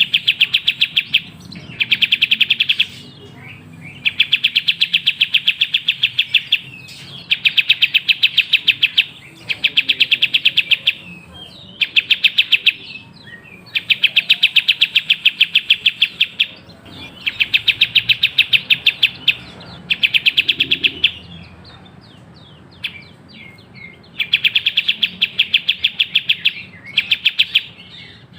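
A kapas tembak singing in bursts of fast, chattering trilled chirps, each one to two and a half seconds long with short pauses between. A few seconds of softer scattered notes come about three-quarters of the way through.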